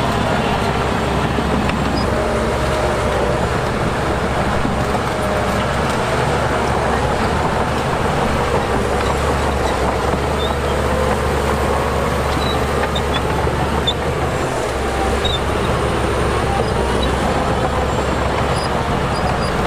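Heavy diesel earthmoving machinery running steadily, a constant low engine drone under a noisy rumble.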